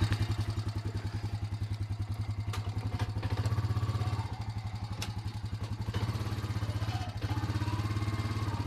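Off-road trail bike's engine running steadily, with an even, rapid exhaust pulse.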